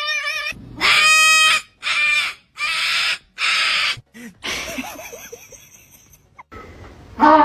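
Parrot calling: one pitched, held note, then four loud, harsh screeches in quick succession, followed by quieter chattering.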